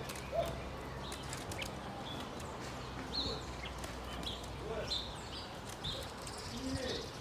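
Several small birds calling: scattered short, high chirps with a few lower, curved notes in between.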